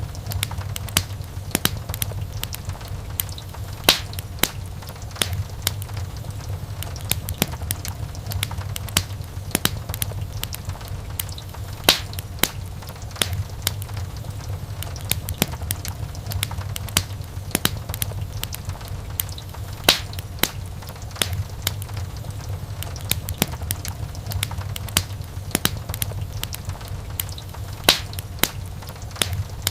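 Wood fire in a fireplace crackling: dense, irregular snaps and a few louder pops over a steady low rumble of the flames.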